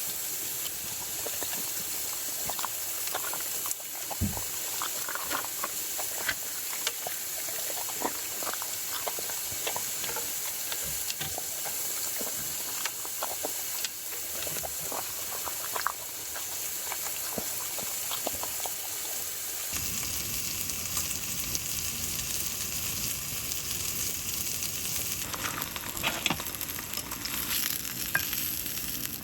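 Food sizzling and frying in a hot pan, a steady hiss with many scattered small pops and crackles. About two-thirds of the way in the sound changes abruptly and becomes fuller and lower.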